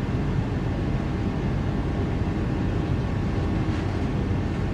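Queensland Rail electric multiple-unit train running along the track, heard from inside the carriage: a steady, even running noise of wheels on rail, mostly low in pitch.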